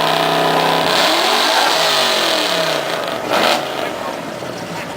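Car engine held at high revs for about a second, then its pitch sweeps down and up as the revs change. A short loud burst comes about three and a half seconds in, and the engine is quieter after it.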